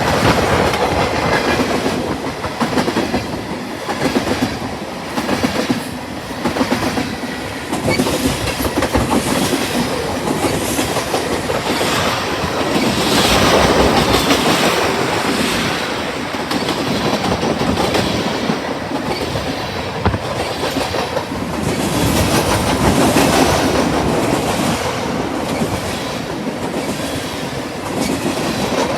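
Freight cars of a BNSF manifest train rolling past, their wheels clacking over the rail joints in a repeating rhythm over a steady rumble, swelling louder twice.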